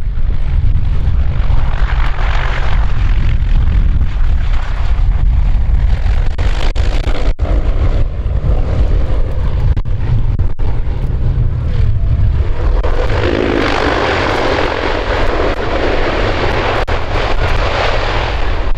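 Fairchild C-123 Provider transport's engines running through a crosswind landing, a loud steady rumble that grows fuller in the second half.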